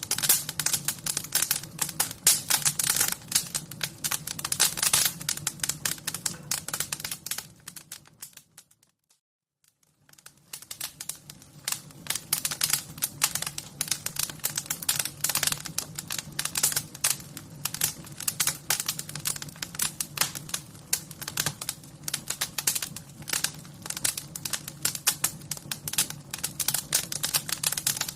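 Wood fire crackling with dense, rapid pops and snaps over a steady low hiss. About eight seconds in it fades out to near silence for a second or so, then comes back.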